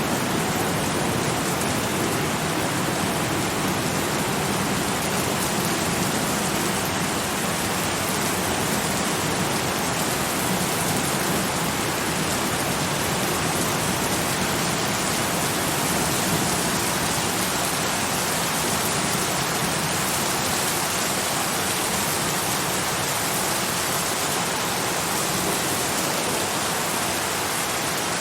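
Steady rain falling, a constant even hiss with no single drops or thunder standing out.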